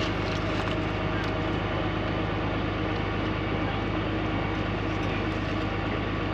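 Steady low mechanical rumble, unchanging throughout.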